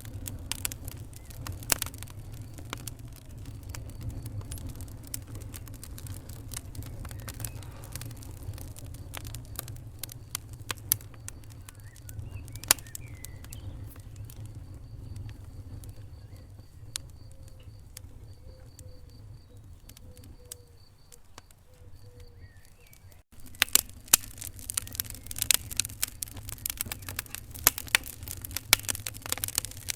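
Wood fire in a fireplace crackling and popping over a low steady rumble of flames. A short break about 23 seconds in is followed by denser, louder pops.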